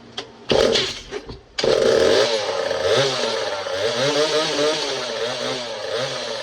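Early-1970s Craftsman 2.3 two-stroke chainsaw engine, Poulan-built, firing briefly about half a second in, then catching a second later and running on with its speed wavering unevenly up and down: an old, long-dead saw brought back to running.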